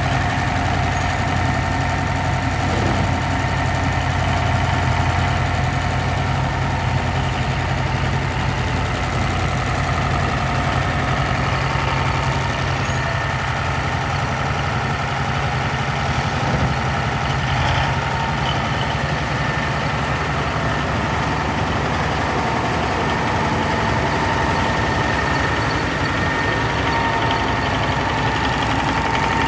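Cummins 903 V8 diesel engine of a 1975 Versatile 900 four-wheel-drive tractor idling steadily.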